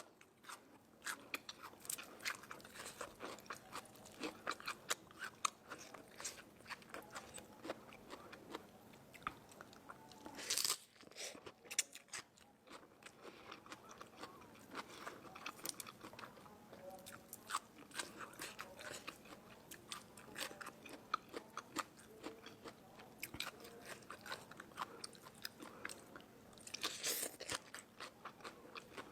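A person chewing crisp, crunchy food close to the microphone: a dense, irregular run of small crunches and clicks, with two louder crunching bursts, about ten seconds in and near the end.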